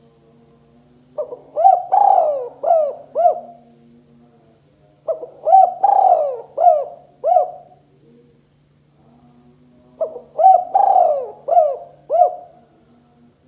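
Spotted dove (tekukur) cooing: three phrases of about five quick coo notes each, a few seconds apart.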